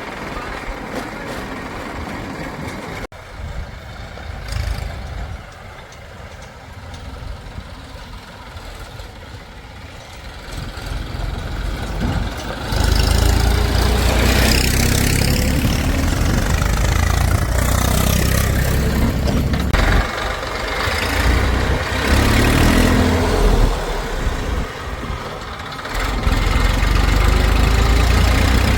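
Heavy vehicle engine running, quieter at first, then loud and rumbling from about halfway through, with brief drops in load near 20 s and 26 s.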